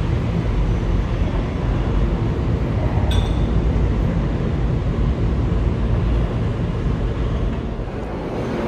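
New York City subway train rumbling steadily in an underground station, with a single sharp metallic clink about three seconds in.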